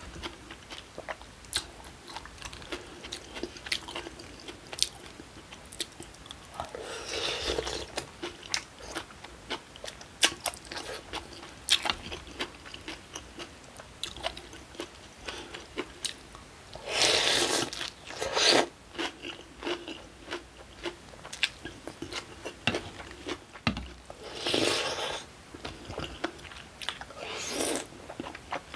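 Close-miked mukbang eating sounds: crisp, crunchy chewing of a cold acorn-jelly rice bowl loaded with kimchi and vegetables, many sharp crunches, broken by a few longer, louder noisy stretches of about a second each.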